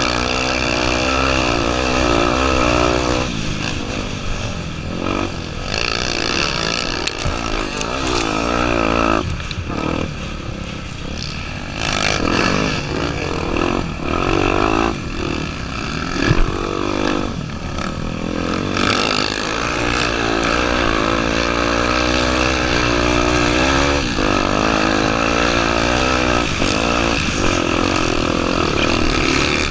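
Honda Tornado 250's single-cylinder four-stroke engine being ridden hard, its revs rising and falling again and again. A sharp knock comes about sixteen seconds in.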